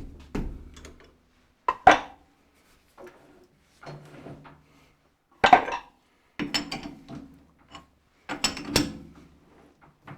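Metal hand tools and lathe parts being handled during thread tapping: a series of separate clanks, knocks and rattles with short pauses between them.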